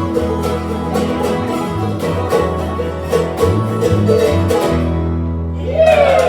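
Acoustic string-band music: plucked guitar and banjo strumming in a steady rhythm over sustained bass notes. The strumming drops out about five seconds in, and a new sound with a sliding pitch comes in just before the end.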